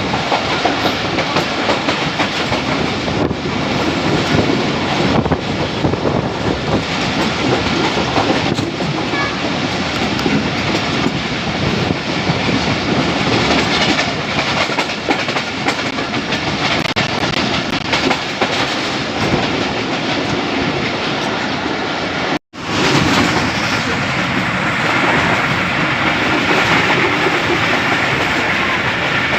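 Jaffar Express passenger train running along the track, heard from aboard: a steady rumble with the clickety-clack of the coach wheels over rail joints.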